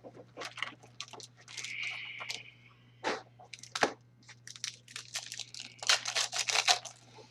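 A trading-card pack's plastic wrapper being torn open and crinkled: a run of crackles and rustles with a short tearing stretch about two seconds in, densest near the end.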